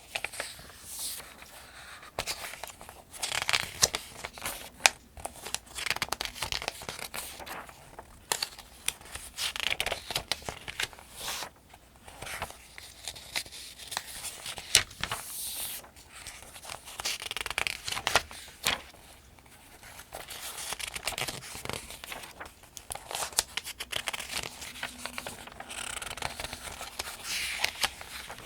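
Pages of a paperback almanac turned by hand at a steady pace: repeated paper rustles, each page ending in a crisp flick.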